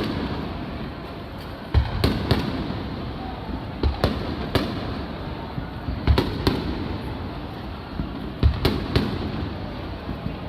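Aerial fireworks shells bursting, about a dozen sharp booms in irregular clusters, some in quick pairs, each trailing off in a low rumble.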